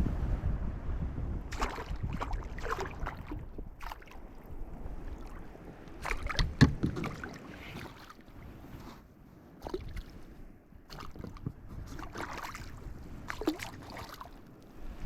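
Water splashing and lapping against a kayak in irregular bursts, over a low rumble of wind on the microphone.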